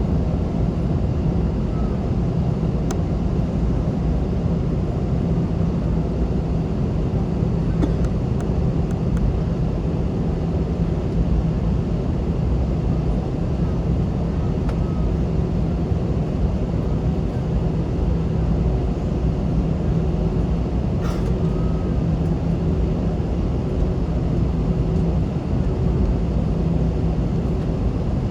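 Steady engine and air-conditioning drone inside an Airbus A321 cabin during taxi, a constant low hum with no change in power. A few faint clicks and a short chirp sound about two-thirds of the way through.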